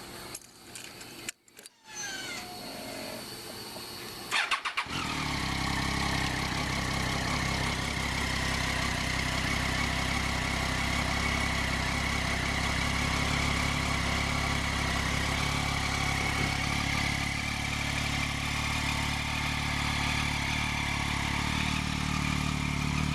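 Triumph Daytona 675's inline three-cylinder engine on its factory exhaust being started: a brief crank about four and a half seconds in, then it catches and settles into a steady idle.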